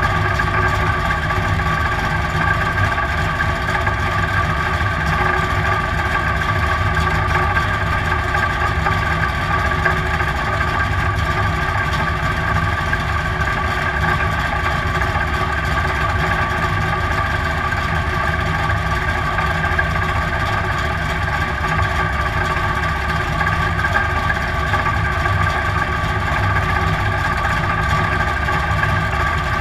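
Dirt-track stock car's engine idling steadily while the car sits still, heard from inside the cockpit.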